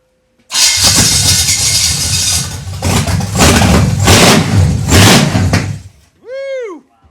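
Engine with no exhaust fitted, primed with a little gas poured down it, firing up about half a second in and running very loud. It surges several times as it is revved, then dies about six seconds in.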